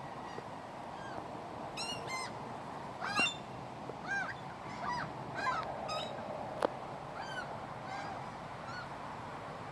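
Gulls calling again and again in short, arched, high cries, several birds at once.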